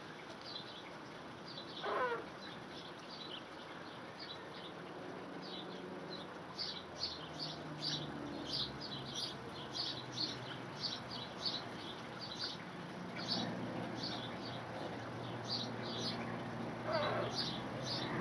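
Birds chirping: a rapid run of short, high chirps, several a second, growing denser partway through, with a brief harsh call about two seconds in and another near the end.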